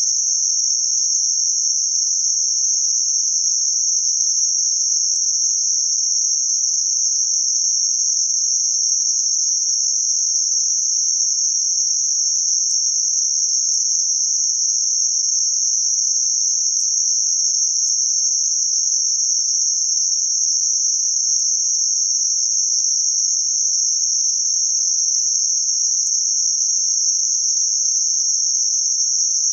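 Synthetic band-limited white noise centred around 6051 Hz: a steady, high-pitched hiss confined to a narrow band, unchanging in level.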